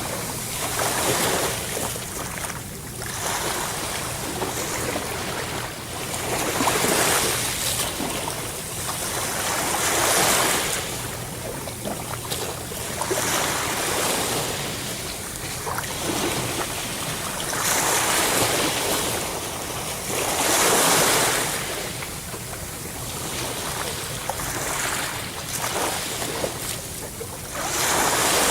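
Sea waves breaking on a shore, a steady wash of surf that swells and falls back every few seconds, with loud surges about seven seconds in, around ten seconds, and twice near twenty seconds.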